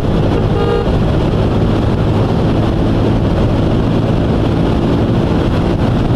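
Motorcycle riding at speed, the engine running steadily under a rush of wind on the microphone, with one short horn toot just under a second in.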